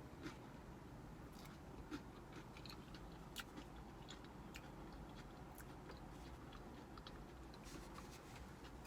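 Quiet close-up chewing, with small scattered mouth clicks from someone eating soup, over a steady low hum of distant traffic.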